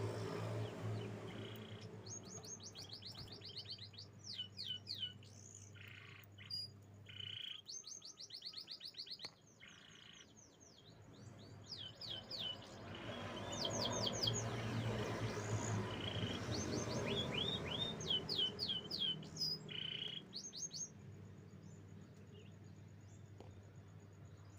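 Canary singing: rapid trills of quickly repeated high, falling notes in phrases broken by short pauses, stopping a few seconds before the end. A low steady hum runs underneath.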